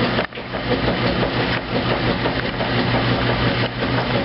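2008 Kenmore top-load washing machine running mid-cycle: a steady mechanical hum with noise over it, and a brief drop in sound just after the start.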